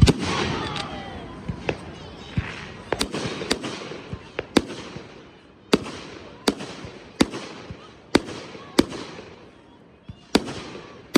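Consumer fireworks going off in a display: one very loud bang right at the start with a crackling hiss trailing after it, then a string of sharp, separate bangs from shells bursting, roughly one or two a second.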